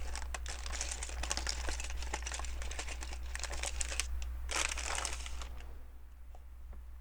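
Crinkling and rustling of plastic with many small clicks of LEGO pieces being handled. It dies down about five and a half seconds in, leaving a few faint clicks.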